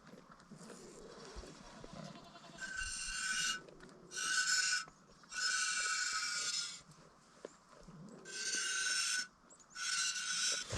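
Goat kids bleating: five high-pitched calls in a row, each about a second long, as the kids call for their mothers.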